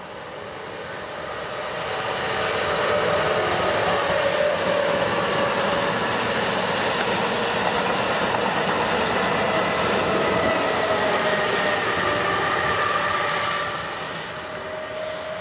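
Amtrak Acela Express high-speed electric trainset passing at speed: a rushing roar of wheels on rail with a faint whine over it, building over the first couple of seconds, holding steady while the cars go by, then dropping away near the end.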